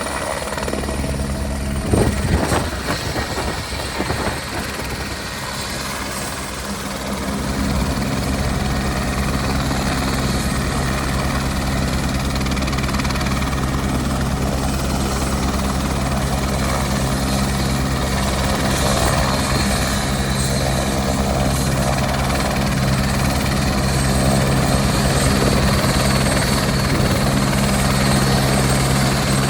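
Helicopter running, with a couple of sharp knocks in the first few seconds. From about a quarter of the way in, its rotor beat settles into a steady low drone that grows a little louder toward the end.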